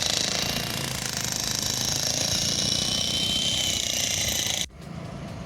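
Jackhammer breaking up the road surface, hammering steadily, then cutting off abruptly near the end.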